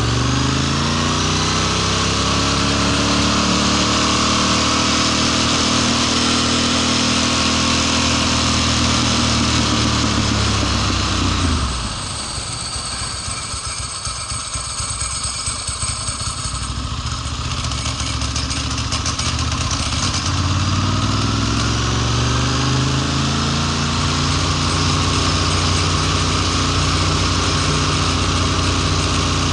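2002 Ducati Monster S4's L-twin engine running with a rising note, then about twelve seconds in it suddenly cuts out and sputters irregularly for several seconds before catching and pulling again. This is the sputtering and cutting out under way that the owner is trying to diagnose.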